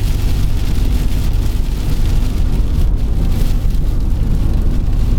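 Car driving at speed through a heavy rainstorm: a steady low rumble of tyres, engine and wind, with the hiss of rain and spray on the car over it.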